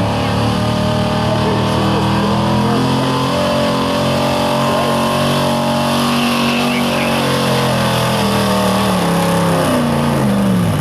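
Pulling truck's engine running hard at high revs, holding steady through the pull, then the revs falling away over the last two seconds or so.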